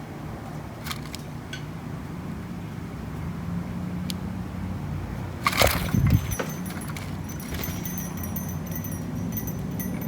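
A steady low rumble runs under the whole stretch. A loud thump with a short clatter comes about halfway through, and faint, rapid, high-pitched chirps follow it.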